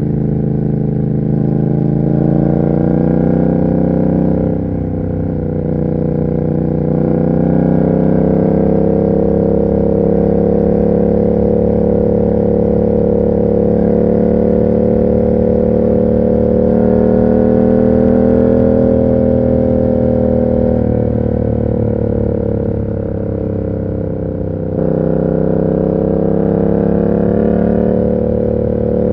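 Yamaha MT-07's parallel-twin engine through an SC Project exhaust, running under throttle on the move. The note climbs slowly, drops back briefly about four seconds in and again about five seconds before the end, then picks up again.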